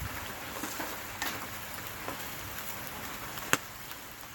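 Steady rain falling, with scattered light ticks and one sharp click about three and a half seconds in.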